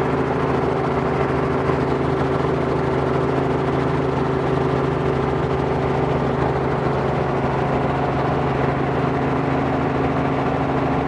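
Robinson R44 helicopter's piston engine and rotors running steadily before takeoff, a constant hum of engine tones.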